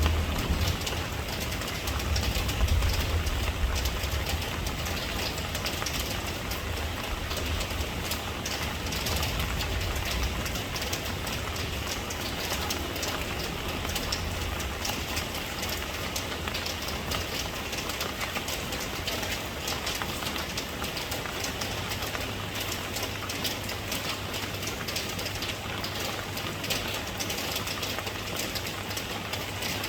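Steady rain falling, a dense hiss of countless drops pattering, with a deep low rumble under it that is strongest for the first ten seconds or so and then fades to a faint background.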